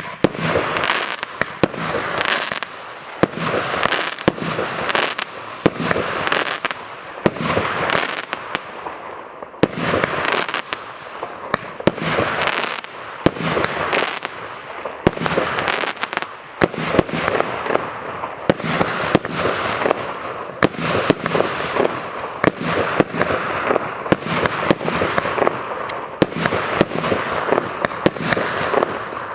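A 100-shot, 1.1-inch firework cake firing shot after shot in quick succession. Each launch is followed by a bursting shell, with crackling from the crackling-star effects between the shots.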